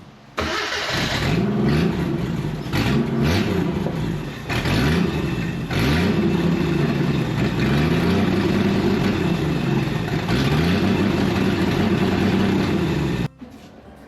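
A 1987 Jeep Wrangler YJ's engine catches suddenly and runs, revved up and down several times, then stops abruptly about a second before the end.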